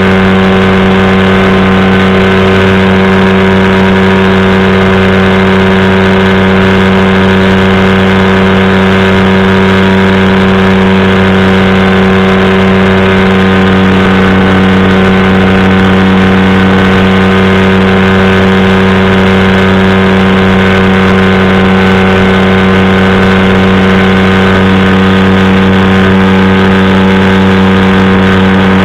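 Powered parachute's engine and propeller running at a steady, unchanging speed, loud and close.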